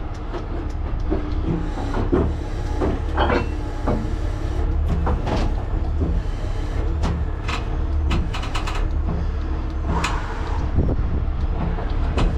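Heavy diesel truck engine running steadily, with repeated metal clanks, knocks and clicks of towing gear being worked, some in quick clusters.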